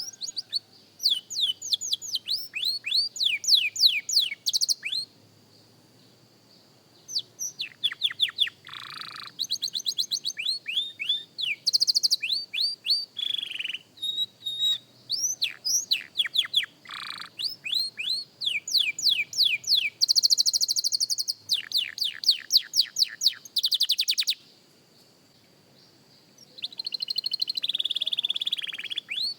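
Young canary singing practice song: rapid trills of repeated falling whistled notes, strung into phrases with short breaks and two pauses of about two seconds.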